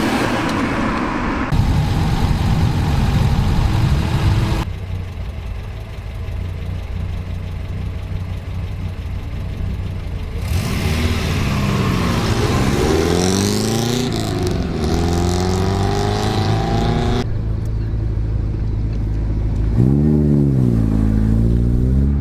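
Rally car engines running and revving, cut together from several short shots. The first half is a steady engine sound. From about halfway the engine pitch climbs and falls repeatedly as a car accelerates through its gears, and near the end there is one more dip and rise in pitch.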